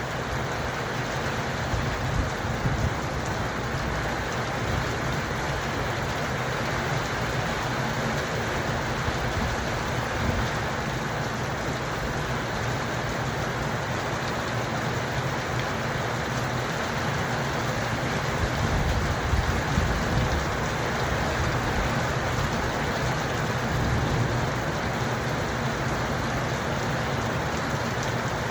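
Steady heavy rain falling on surfaces, with low rumbling swells a few times.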